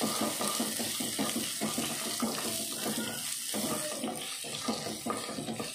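Green beans and spices sizzling in hot oil in a clay pot, stirred with a wooden spatula: a steady frying hiss with repeated scraping strokes of the spatula against the pot.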